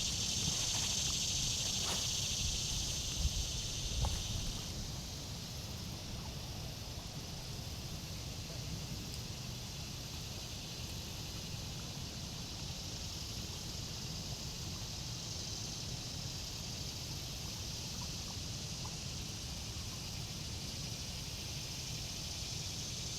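Steady outdoor insect chorus, with crickets or cicadas, in a high buzzing band that is louder for about the first five seconds and then carries on more softly, over a low steady rumble.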